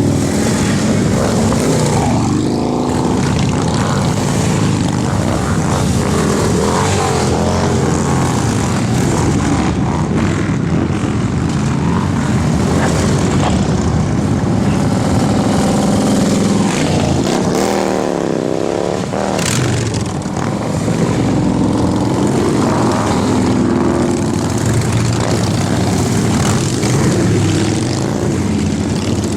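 Many motorcycle engines running together, their pitch rising and falling as bikes rev and ride past.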